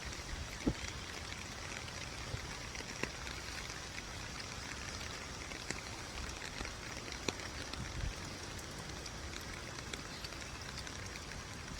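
Steady rain falling, with scattered single drops landing close by as sharp ticks.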